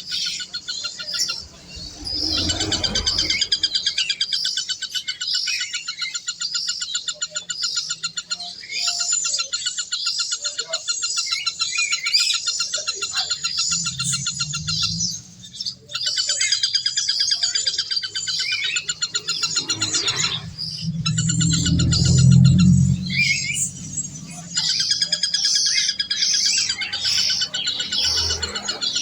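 Birds chirping rapidly and continuously, a dense chatter of many quick repeated calls, with a low rumble about two seconds in and a longer one near the end.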